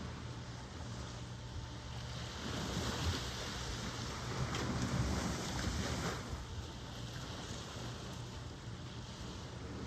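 Ocean surf: a wave builds about two and a half seconds in, washes in loudest around the middle, and drains away a second later, over a steady low rumble of the sea.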